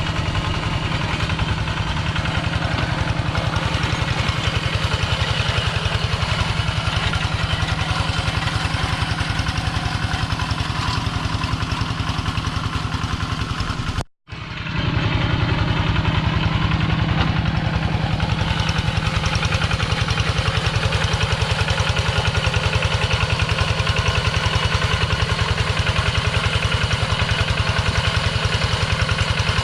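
Kubota two-wheel tractor's single-cylinder diesel engine running steadily with a rapid, even chugging beat. It breaks off for a moment about halfway through, then carries on unchanged.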